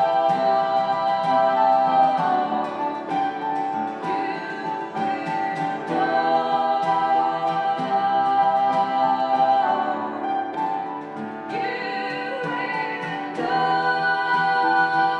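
Live acoustic pop song: strummed acoustic guitar with sung voices holding long notes, about two seconds each, without clear words; it thins out briefly about two-thirds of the way through, then comes back in full.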